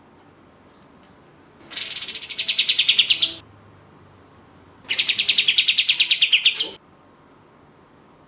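Kapas tembak (katem) songbird singing two rapid rattling trills, each about a second and a half to two seconds long. Both are made of quick repeated notes that start high and drop in pitch. The notes run at roughly a dozen a second.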